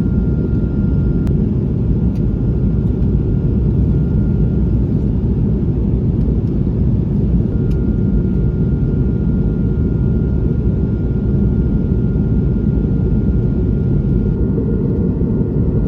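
Steady, loud cabin noise inside an Airbus A220-300: a low rumble of airflow and its Pratt & Whitney geared turbofan engines, with a faint high whine that comes and goes.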